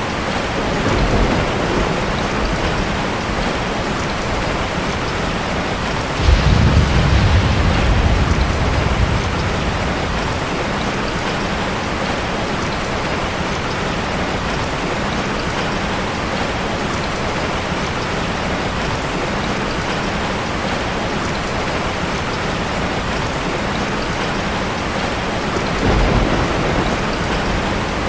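Heavy rain falling steadily, with rolls of thunder: a low rumble about a second in, a louder one starting suddenly about six seconds in and lasting a few seconds, and another near the end.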